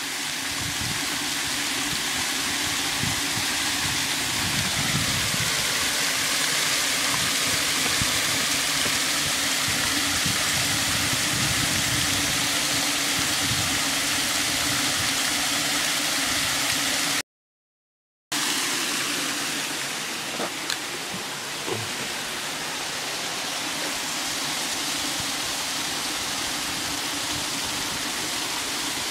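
Steady rush of a waterfall and its stream, cutting out completely for about a second roughly two-thirds of the way through.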